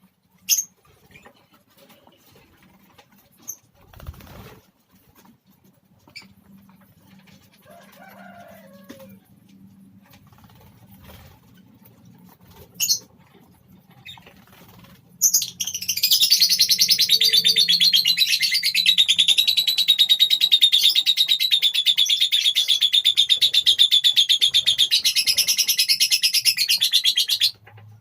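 Lovebird calling: a few short chirps and rustles at first, then about halfway through a loud, rapid, unbroken high-pitched chatter that runs for about twelve seconds and stops abruptly.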